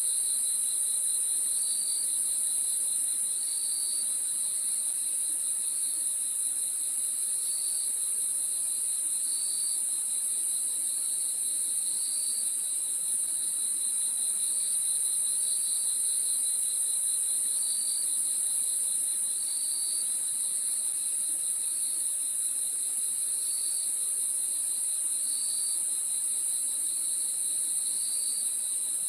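Crickets chirping at night in a steady chorus: a continuous high, shrill trill with a lower pulsing chirp repeating about every second or two.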